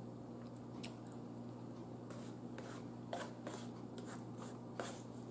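Faint chewing, with scattered small clicks and scrapes of a fork on a plate, over a low steady hum.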